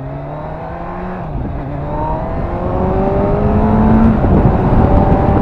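2013 Kawasaki Z1000SX's 1043 cc inline-four engine accelerating hard, its revs climbing. The pitch drops for an upshift about a second in and again about four seconds in. Wind noise grows louder as speed builds.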